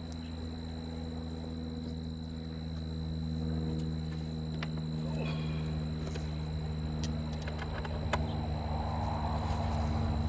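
A motor running steadily with a low, even hum, with a few faint clicks over it and a thin, steady high-pitched tone.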